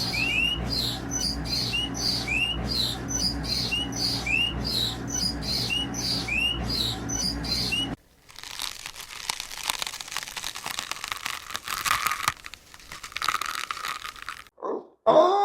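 A bird chirping over and over in short, high, curved notes about twice a second. About eight seconds in, the sound cuts to a crackling, crunching rustle.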